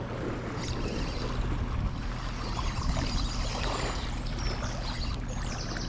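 Steady rush and ripple of river water running.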